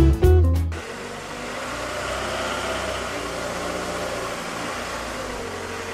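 Blues electric-guitar music ends within the first second. Then a turbocharged Honda's engine idles steadily, a constant noisy hum with a faint low tone.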